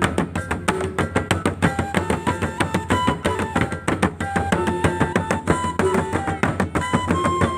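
Gordang sambilan ensemble playing: a dense, fast, interlocking rhythm of many drum strokes, with a wind instrument holding a stepping melody of sustained notes over the drumming.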